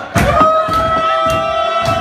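Rock band playing live at full volume: drum hits on a steady beat a little under twice a second, and a long held note that comes in about half a second in, after a brief drop at the start.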